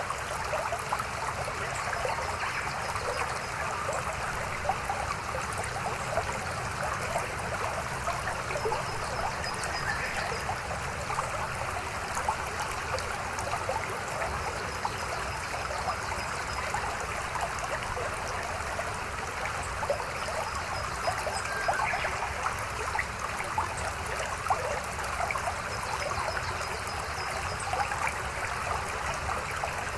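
Shallow mountain stream murmuring and trickling steadily, with many small splashes. A faint high trill of short notes repeats about every six seconds.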